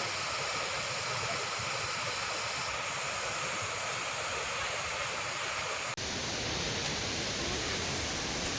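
Steady rush of a waterfall, dropping out for an instant about six seconds in.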